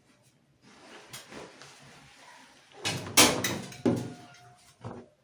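Clothes rustling as they are put into a top-loading washing machine, with several sharp knocks of handling against the machine, the loudest about three seconds in.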